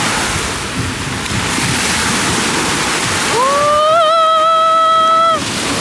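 Ocean surf and wind rushing on the microphone. About three seconds in, a high-pitched held tone rises in and sustains with a slight waver for about two seconds, then stops abruptly.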